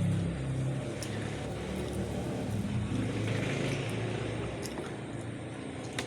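A steady low engine drone, with a few faint clicks.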